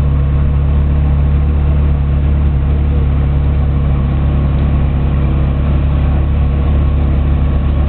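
Ferrari 360 Modena's 3.6-litre V8 idling steadily, a constant low-pitched run with no revving.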